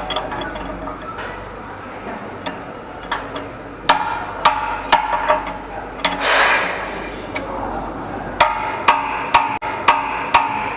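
Background music with a woodblock-like percussive beat, about two knocks a second, getting more regular and pitched in the last few seconds, with a short loud hiss about six seconds in.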